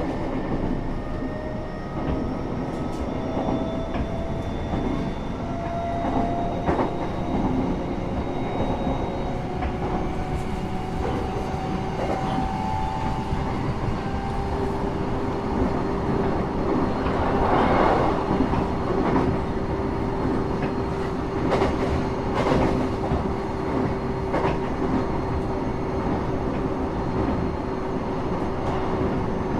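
Inside a train cabin while it runs: a steady rolling rumble with scattered clicks of wheels over rail joints. A whine rises slowly in pitch through the first half as the train gathers speed, then holds as a steady hum. A louder rush swells briefly a little past halfway.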